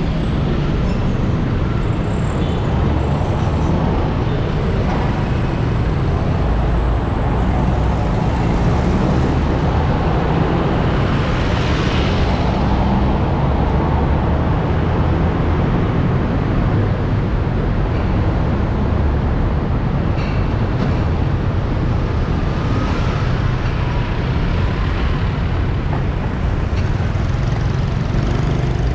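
Steady road and traffic noise heard while riding through city streets, with a heavy low rumble of wind on the microphone. About twelve seconds in, a louder, brighter swell suggests a vehicle passing close by.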